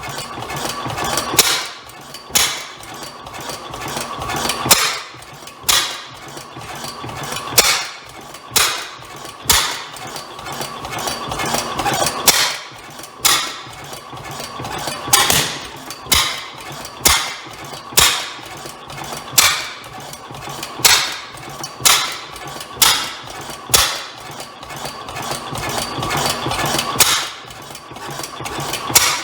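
Old Bovard & Company single-cylinder hot-tube-ignition engine firing, a sharp bang about once a second. The owner suspects the backfire comes from an exhaust valve issue, or from the timing acting up.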